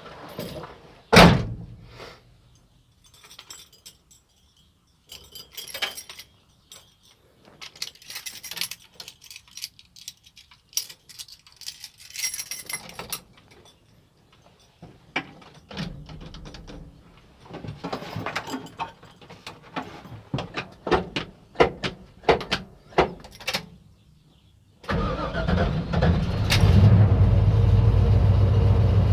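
Scattered clicks and handling noises with a loud thump about a second in. About 25 seconds in, the 1969 Camaro's engine starts and runs steadily and loud through its Magnaflow exhaust.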